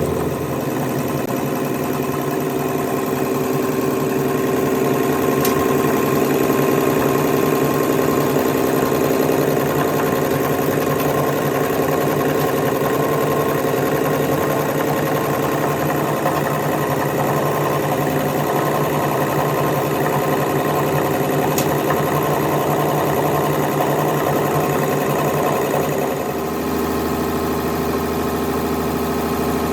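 A machine running steadily with an even mechanical hum, its tone shifting lower about 26 seconds in.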